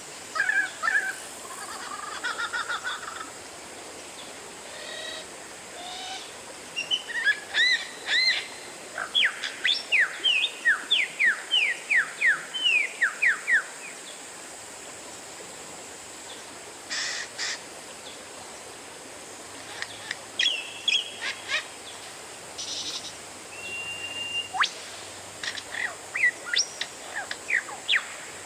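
Oriental magpie-robin (kacer) singing: varied whistled phrases, including a long run of quick sweeping notes and a held steady whistle, over a faint steady high hiss.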